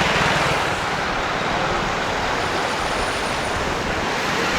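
City street traffic: steady road noise from passing cars and larger vehicles, with one engine rumbling close by in the first second.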